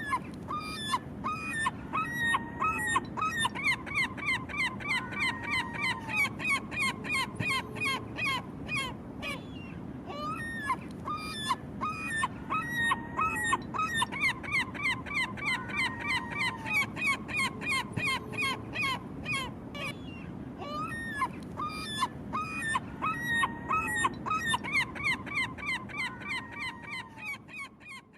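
Herring gull calling: rapid runs of short pitched calls mixed with a few longer drawn-out notes, coming in three bouts about ten seconds apart, over a steady low background noise.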